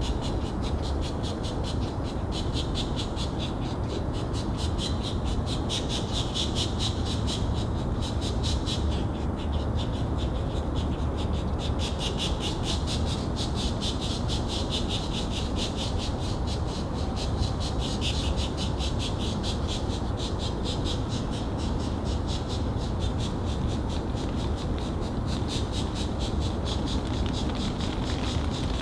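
Pileated woodpecker nestlings giving a rapid, high-pitched pulsing begging call in bouts of several seconds with short breaks, over a steady low rumble.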